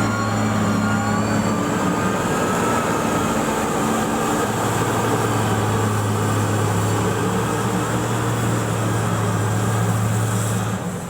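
Diesel engine of heavy road-building equipment running steadily under a constant load. A higher wavering whine fades away in the first couple of seconds.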